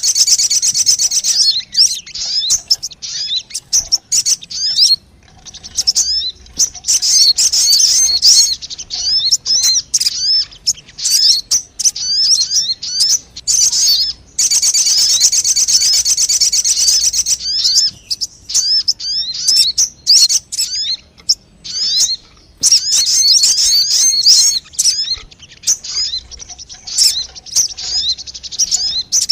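Sogon bird lure call: rapid, high-pitched chirping and sharp chip notes, broken by a long, dense trill at the start and another about halfway through.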